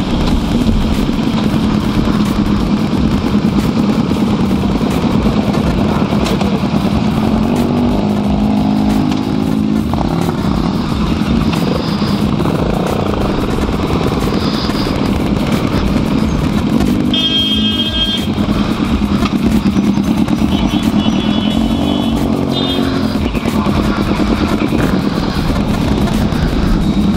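Motorcycle engine running steadily while riding on a city road. A short high-pitched tone sounds about 17 seconds in.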